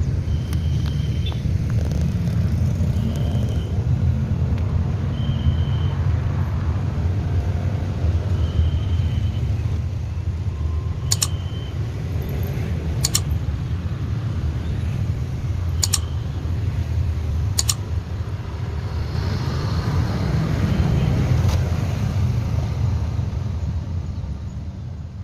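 Heavy, steady low rumble of traffic passing over a railway level crossing, with short high tones every two to three seconds in the first half and a few sharp clicks around the middle.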